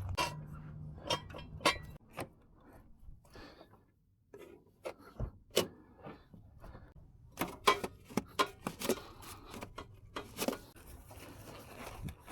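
Irregular sharp clicks and light metallic knocks from tools and parts being handled during an oil change, with a low steady hum in the first two seconds.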